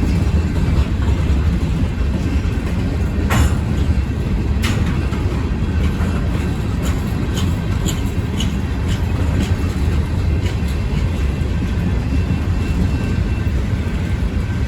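Freight train cars rolling past at track speed: a steady low rumble of wheels on rail, with a few sharp clicks and brief squeaks from the wheels.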